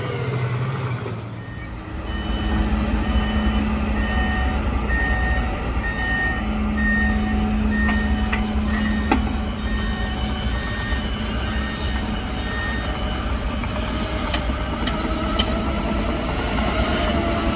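Heavy machine's reversing alarm beeping at an even pace, a little over one beep a second, over the low rumble of a working heavy diesel engine. The beeping stops about three-quarters of the way through, and a couple of sharp knocks sound near the middle.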